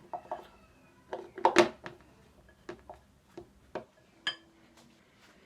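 A utensil working mashed sweet potato and scallion together in a bowl: irregular taps and knocks against the bowl, the loudest about a second and a half in, and a short ringing clink a little after four seconds.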